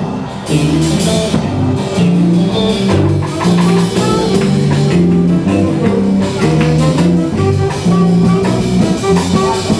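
Blues band playing live: a bass line stepping from note to note under guitar and a drum kit, with no singing.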